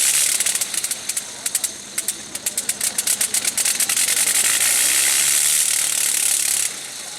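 Engine running with a rapid, hard exhaust beat, several knocks a second, then a steady high hiss that cuts off suddenly near the end.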